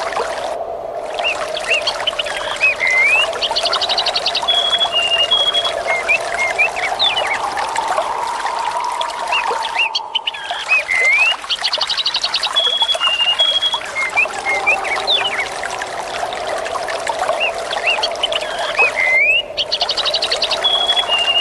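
Running water trickling and pouring steadily, with birds chirping, trilling and whistling over it. The recording is a short loop that repeats about every nine seconds, the high sounds briefly dropping out at each seam.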